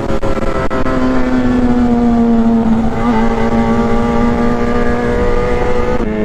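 Four-cylinder four-stroke superbike engine running at high revs under way, a steady buzzing note whose pitch eases down slowly, with a brief wobble about three seconds in.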